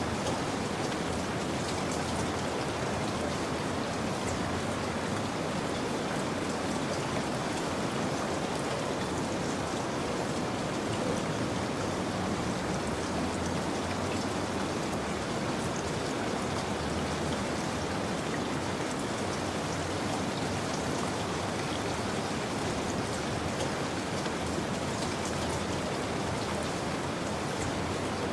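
Steady rain falling, a constant hiss of drops with scattered patter, unchanging throughout.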